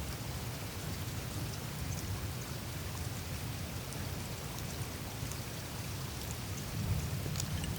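Melting glacier ice surface with meltwater trickling through it: a steady watery hiss over a low rumble, sprinkled with faint high ticks and crackles of the ice, a small cluster of them near the end.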